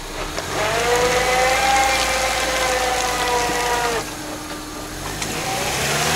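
Lada Niva 4x4 crawling through mud, its engine running under load. A high whine rises slightly and falls away over about three seconds in the middle.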